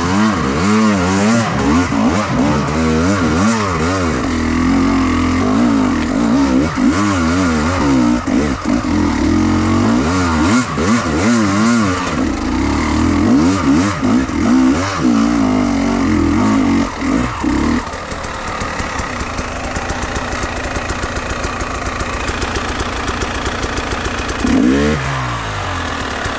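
Enduro motorcycle engine revving up and down quickly under riding, then about eighteen seconds in dropping to a lower, steadier run close to idle, with one short rev near the end.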